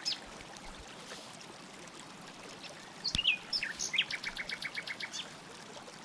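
A bird chirping: a few short falling chirps about three seconds in, then a quick trill of repeated notes lasting about a second.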